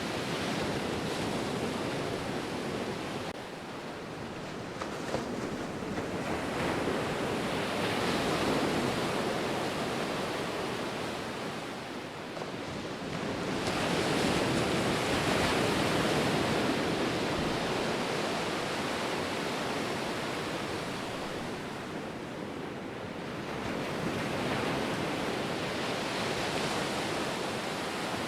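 Ocean waves breaking and washing on the shore, a continuous rush of surf that swells and fades in slow surges. The strongest comes about 14 seconds in.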